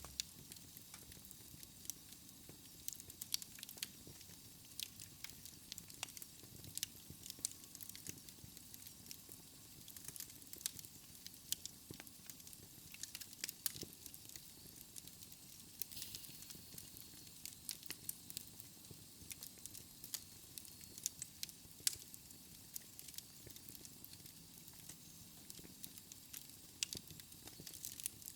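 Wood fire crackling in a fireplace: irregular sharp snaps and pops over a soft steady hiss.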